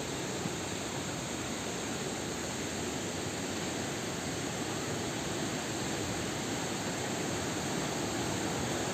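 Steady rush of a waterfall, slowly getting louder.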